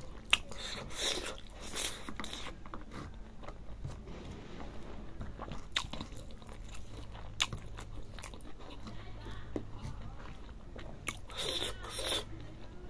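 Close-miked chewing of a mouthful of mithun skin curry and rice: wet mouth noises and sharp clicks, busiest in the first couple of seconds and again near the end, with scattered single clicks between.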